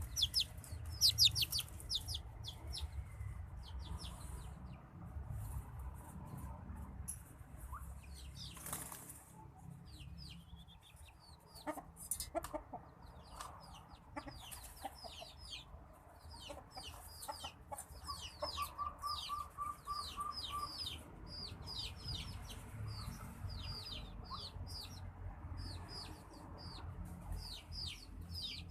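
Birds in an aviary with white-breasted waterhens: short high chirps repeating throughout, a quick run of about eight low notes about two-thirds of the way in, and a brief rush of wing flutter about a third of the way in.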